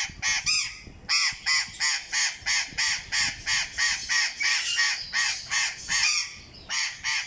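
Amazon parrots giving a rapid run of loud, harsh squawks, about three a second, with brief pauses about a second in and near the end, echoing under an aviary dome.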